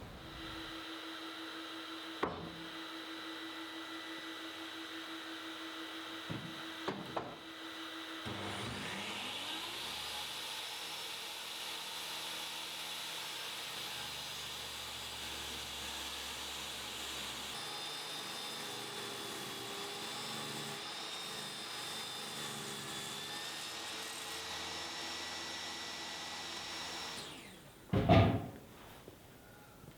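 Woodworking power tool running steadily. About nine seconds in its sound changes and rises in pitch, and near the end it winds down and stops, followed by a couple of loud knocks.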